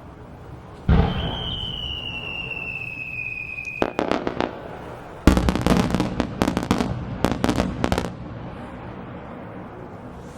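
Aerial fireworks: a deep boom about a second in, then a high whistling tone falling slightly in pitch for about three seconds, a few sharp cracks, and a second loud boom at about five seconds followed by rapid crackling reports that stop at about eight seconds.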